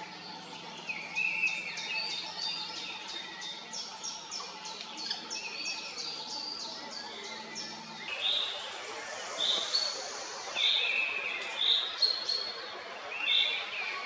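Several forest birds singing and calling at once: a fast run of short chipping notes over other birds' song phrases. About halfway through the background changes abruptly, and a bird then repeats a short bright note about once a second.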